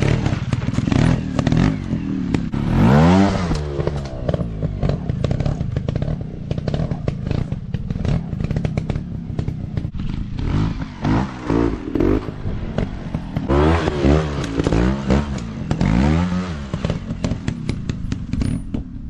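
Dirt bike engines revving again and again, the pitch climbing with each twist of the throttle, over a constant run of crackling clicks and clatter.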